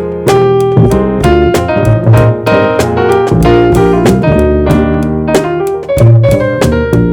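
Jazz trio playing: electric piano or keyboard comping and soloing over walking bass, with drums keeping time on the ride cymbal.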